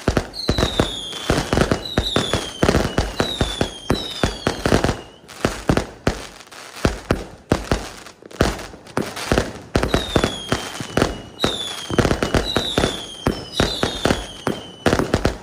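Fireworks going off: a dense run of sharp bangs and crackling pops, with whistling shells that each give a short whistle falling slightly in pitch, about ten in all. The bangs thin out briefly twice in the middle.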